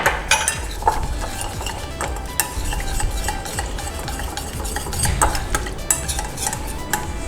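Stirring cornflour and water together in a bowl for a marinade: a utensil scraping and clicking irregularly against the bowl.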